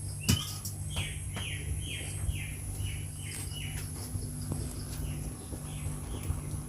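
A bird calling over and over: a run of short, falling chirps at about two a second, over a steady low hum.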